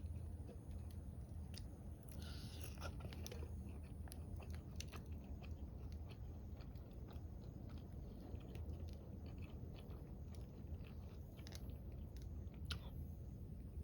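Close-up eating sounds: chewing and crunching food, with scattered small crunches and clicks, a denser burst about two seconds in, over a steady low rumble.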